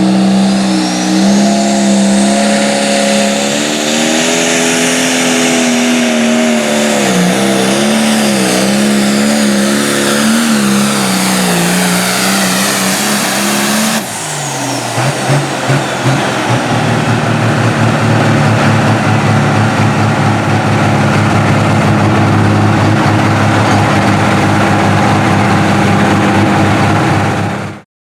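Pulling tractor's engine running flat out under load, its pitch wavering up and down. About halfway it changes abruptly to another engine running steadily at high revs, which cuts off suddenly near the end.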